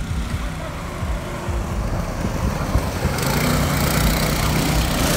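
Mini bike's small single-cylinder engine running under throttle, growing louder and higher about three seconds in.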